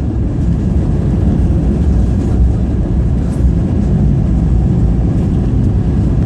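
Steady low rumble of an Airbus A220-300 heard from inside the passenger cabin, from its Pratt & Whitney geared turbofan engines and the airframe, with no change in level.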